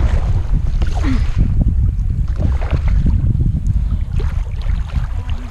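Wind buffeting the microphone on a kayak out on open water: a loud, uneven low rumble.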